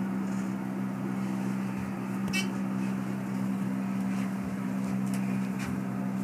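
1996 Dover hydraulic elevator car travelling downward: a steady low hum with a few faint clicks.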